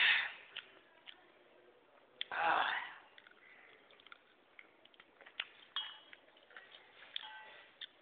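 A man chewing chicken close to a phone microphone: many small wet mouth clicks and smacks, with two louder breathy rushes of noise, one at the start and one about two and a half seconds in.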